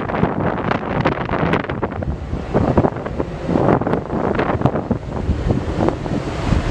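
Gusty wind buffeting the microphone in stormy weather, a loud, irregular rumbling noise that swells and drops in uneven gusts.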